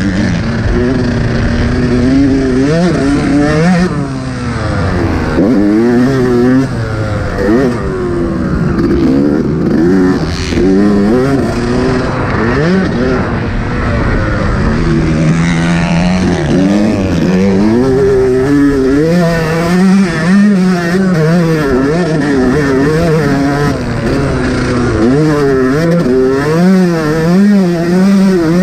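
Yamaha YZ125 single-cylinder two-stroke motocross engine under hard riding, its pitch climbing and dropping over and over as the throttle is worked and gears are changed.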